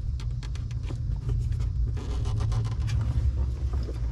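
Small clicks and rustles of plastic vacuum tubing and a wiring plug being handled under a dashboard, over a steady low rumble.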